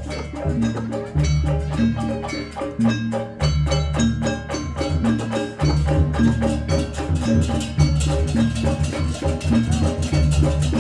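Javanese barong/jaranan dance music: a fast run of drum strokes and struck metallic pitched notes over a repeating line of low bass notes.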